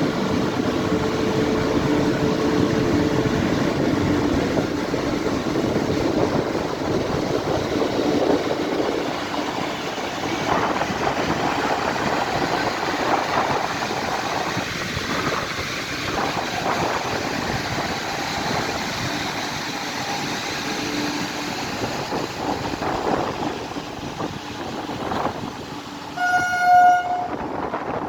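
Indian Railways express train running along the track with a steady rumble and rattle, a held horn note in the first few seconds, and one short, loud horn blast near the end.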